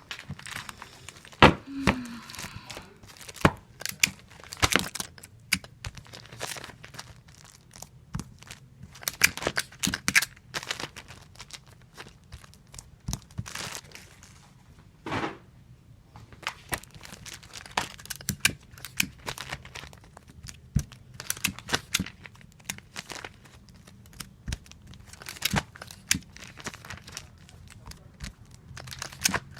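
Tape dispenser in repeated use: tape pulled off the roll in short rasps and torn on the cutter, again and again at an uneven pace, with crinkling and sharp clicks of handling between pulls.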